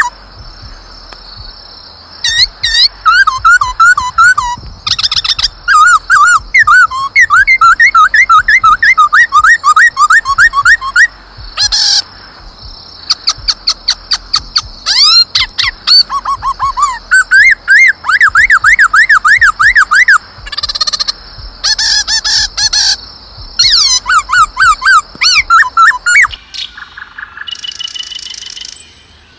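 A songbird singing close by in loud runs of rapidly repeated chirps and whistled notes, changing from one phrase type to another with short pauses between runs. The song stops about 26 seconds in.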